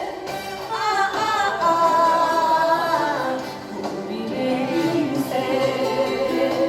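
A woman singing with instrumental accompaniment, holding long notes with a slight waver.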